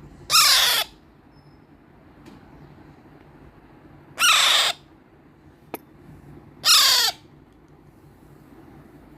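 Alexandrine parakeet chick giving three loud, harsh calls, each about half a second long and a few seconds apart, typical of a hand-fed chick begging for food. A short click sounds between the second and third call.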